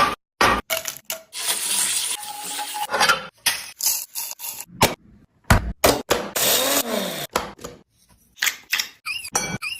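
Quick sharp knocks and metallic clinks of cooking utensils during street-style grilled chicken preparation. A hissing stretch runs from about one to three seconds in.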